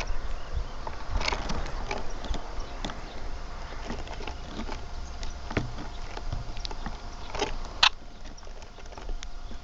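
Backyard birds giving short, sharp chirps and clicks at irregular intervals, the loudest just before the end, over a steady low rumble.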